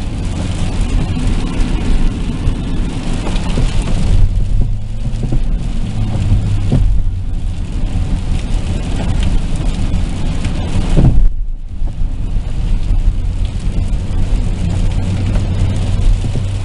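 Road noise inside a moving car's cabin: a steady low rumble from engine and tyres, with a tyre and wind hiss that swells and fades and dips briefly about eleven seconds in.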